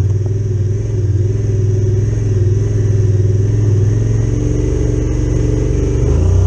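Honda Pioneer 1000-5 side-by-side's 999 cc parallel-twin engine running through an aftermarket HMF exhaust, holding a steady low note with only small changes in revs.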